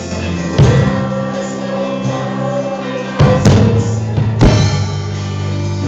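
Gospel worship music: sustained chords under singing, with a few loud drum hits.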